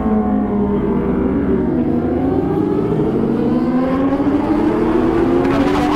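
Kawasaki ZX-25R's inline-four engine under way. Its pitch falls for a couple of seconds as the revs drop, then climbs steadily as the bike accelerates.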